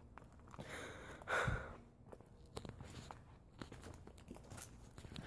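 A person's heavy sigh about a second in, with small clicks and rustles around it.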